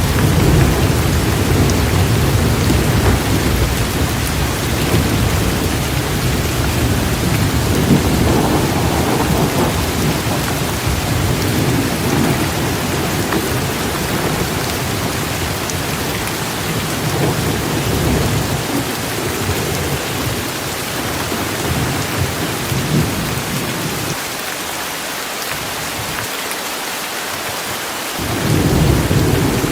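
Heavy rain pouring steadily, with a continuous deep rolling rumble of thunder underneath. The rumble dies away about four-fifths of the way through, leaving the rain alone, and rolls back in near the end.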